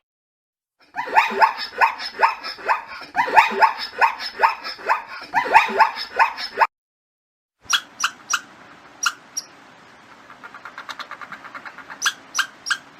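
A dog yelping and whimpering: a quick run of high calls, each falling in pitch, then after a short pause a few sharp separate yips and a fast run of short ones.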